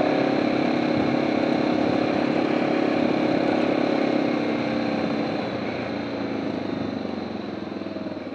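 BMW G650GS single-cylinder engine running steadily as the motorcycle rides along a gravel road. The engine note fades over the last few seconds as the bike slows.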